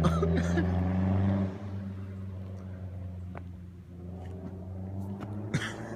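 Mazdaspeed3's turbocharged four-cylinder engine running at a steady speed through an aftermarket CNT turboback exhaust, a low even drone with no revving. About a second and a half in it becomes noticeably quieter and carries on faintly.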